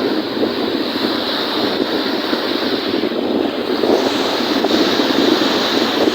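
Strong wind buffeting the microphone over the rush of wind-driven waves on a lake, a dense, steady noise.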